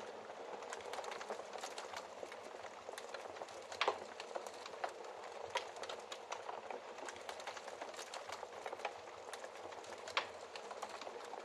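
Wood fire crackling in a fireplace: a steady bed of small crackles with scattered sharp pops, the loudest about four seconds in.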